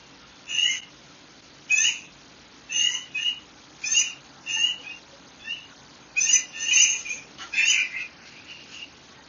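Birds chirping: a dozen or so short, high chirps at irregular intervals, most closely spaced about six to eight seconds in, over a faint steady hiss.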